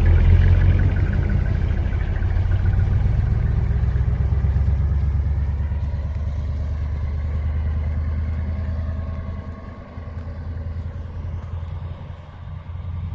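Hino Profia heavy truck's diesel engine running through its twin mufflers: a deep exhaust rumble with fast, even firing pulses. It drops noticeably in level about nine seconds in and trails off near the end.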